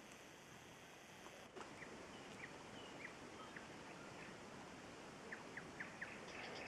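Faint songbirds, among them a nightingale singing: scattered short falling chirps, then a quick run of falling notes about five seconds in and rapid high notes near the end, over a steady outdoor hiss.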